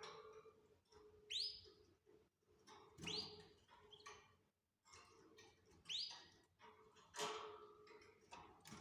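Caged canaries calling: short, sharply rising chirps repeated every couple of seconds, with softer twittering between them.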